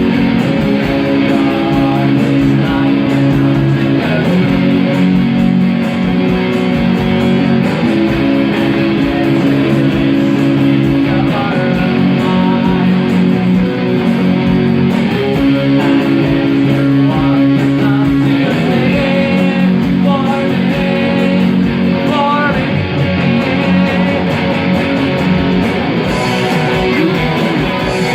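Guitar music without vocals: held chords changing every few seconds, with a melodic guitar line moving over them.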